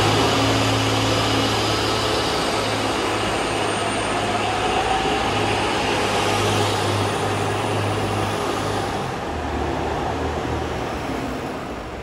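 Electric train moving along a station platform: steady running noise with a low hum and a faint rising whine. It eases off about nine seconds in and fades near the end as the train draws away.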